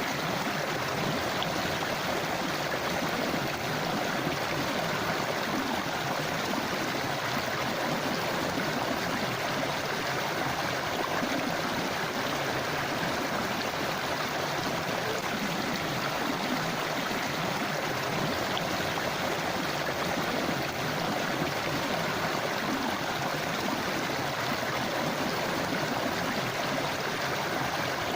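A forest river or stream running, a steady rushing and gurgling of flowing water.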